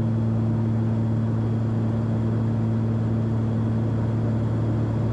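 Steady drone of a Cessna 340's twin piston engines and propellers heard inside the cockpit in flight: a constant low hum that holds its pitch and level.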